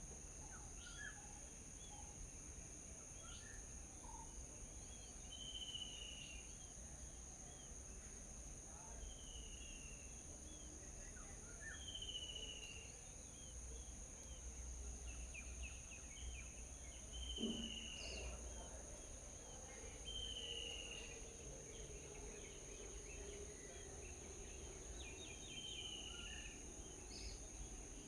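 Outdoor morning ambience: a steady high-pitched insect drone of crickets, with a bird repeating a short falling call every few seconds and scattered small chirps. One soft knock comes about two-thirds of the way through.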